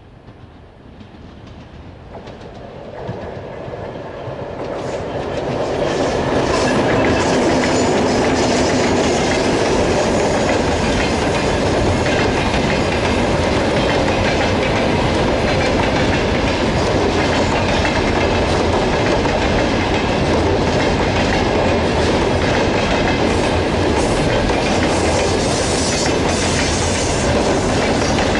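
A 2M62M diesel locomotive approaching, growing louder over the first six seconds. The freight train then passes close, with a steady loud rumble and wheels clattering over rail joints.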